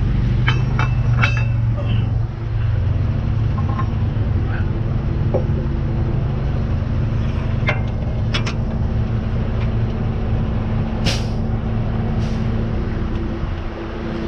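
Tow truck engine running steadily, with a few sharp metal clinks and one short hiss about eleven seconds in.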